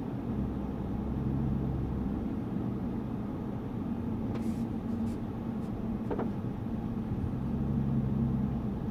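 Lexus GS450h hybrid sedan rolling slowly in the pit lane, a low steady hum whose deeper tones swell near the start and again near the end. A few faint clicks come in the middle and near the end.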